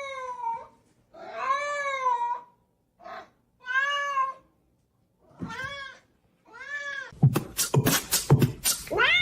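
Domestic cat meowing repeatedly: about six drawn-out meows, each rising then falling in pitch, one short, with brief gaps between them. About seven seconds in, a louder jumble of sharp clicks and cries takes over.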